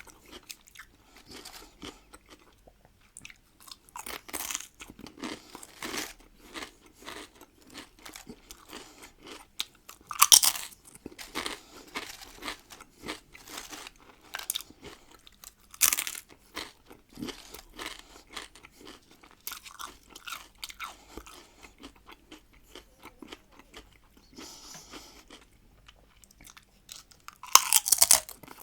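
Close-miked crunching and chewing of salted pickled cucumbers: steady wet chewing with a few loud, sharp bites, the biggest about ten seconds in, about sixteen seconds in and near the end.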